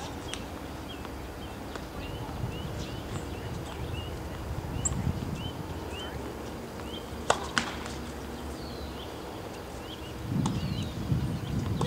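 A small bird chirping over and over, short rising chirps a few times a second, against a low outdoor rumble that swells twice. Two sharp knocks a third of a second apart come a little past the middle.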